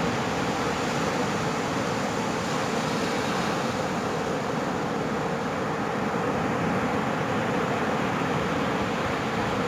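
Ocean surf breaking on a beach: a steady, unbroken wash of noise.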